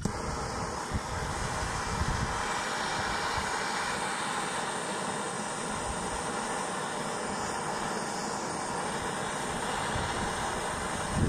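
A steady jet of gas hissing, starting abruptly, running evenly for about eleven seconds and then cutting off suddenly.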